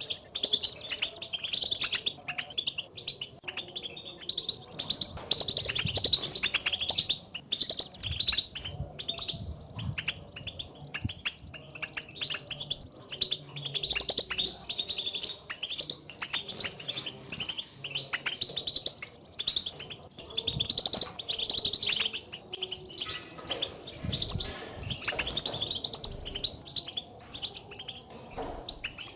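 European goldfinches giving their twittering contact calls ('batbata'), quick overlapping chirps and trills with no pause, the calling that goldfinches use to keep in touch rather than their full song.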